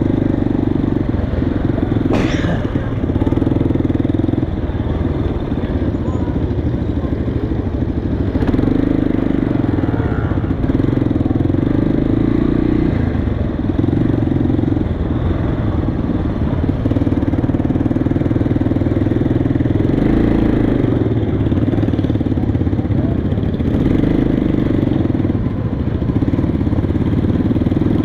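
Motorcycle engine running steadily, its note rising and falling every few seconds with the throttle. A short sharp click about two seconds in.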